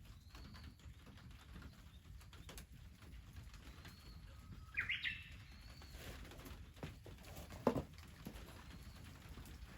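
Small birds chirping now and then, with a louder burst of chirps about five seconds in. A single sharp knock comes near the end, over a low steady rumble.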